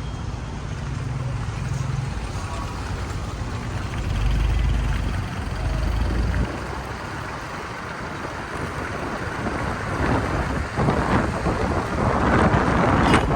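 Rain noise with gusts of wind rumbling on the microphone. The rain grows louder and more crackling over the last few seconds.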